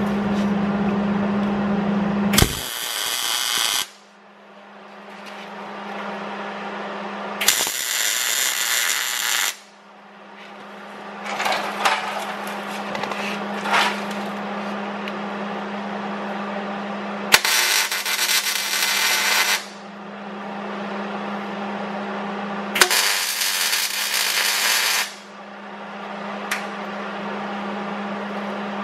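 Electric arc welder laying four tack welds on a steel frame section, each a crackling sizzle of about two seconds with pauses between, over a steady electrical hum.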